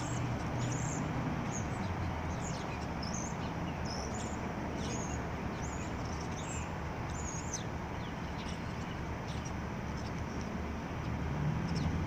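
Birds perched on overhead power lines giving short, high chirps, scattered about once or twice a second, over a steady background of street traffic noise.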